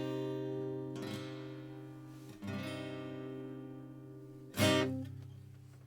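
Seagull S6 mahogany acoustic guitar strummed slowly, three chords each left to ring out and fade, the last one, about four and a half seconds in, the loudest.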